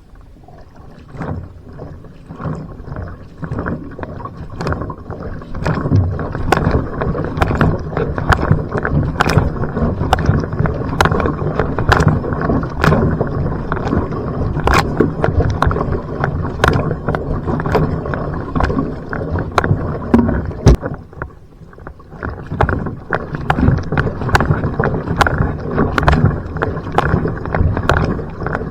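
Va'a (outrigger canoe) being paddled hard from a standstill: paddle strokes splash regularly, about once a second, over rushing water. It builds louder over the first several seconds as the canoe gets up to speed, and eases briefly about three-quarters of the way through.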